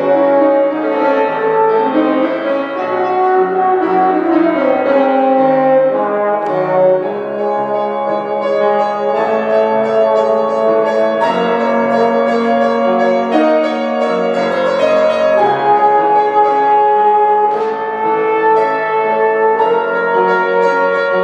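A brass instrument plays a melody of held notes over piano accompaniment.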